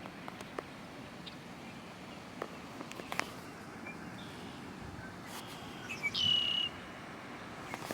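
An oriole giving one clear whistled note about six seconds in, sliding down and then held briefly, with a few faint short chirps around it.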